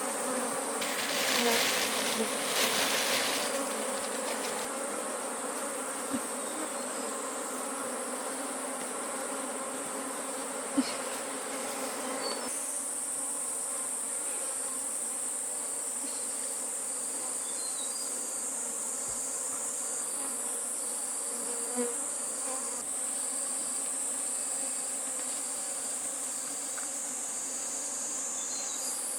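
Forest insects: a steady high-pitched insect chorus over a lower steady hum. From about halfway, a short chirp repeats about once a second. Some rustling in the first few seconds.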